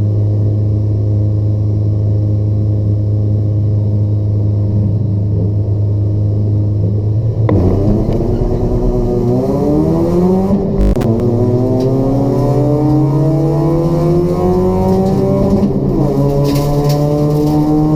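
Race-prepared Toyota Etios with a 1.5-litre petrol engine and free-flow exhaust, its engine held at steady revs, then pulling away about seven seconds in and accelerating with rising pitch. Two upshifts drop the pitch, about three and eight seconds after it pulls away.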